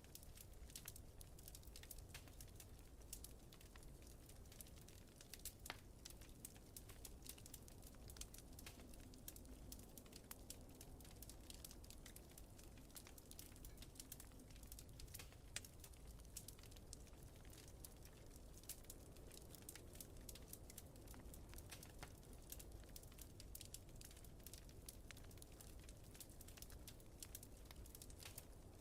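Wood fire crackling in a fireplace: a dense run of small, sharp pops and snaps over a low, steady rumble, all faint.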